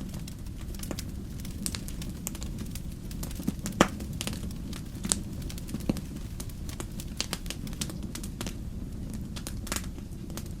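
Fireplace fire crackling: irregular sharp pops and snaps over a steady low rumble, the loudest pop about four seconds in.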